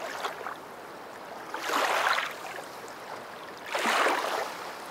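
Rushing water swelling up and fading away twice, about two seconds apart, over a faint steady hiss.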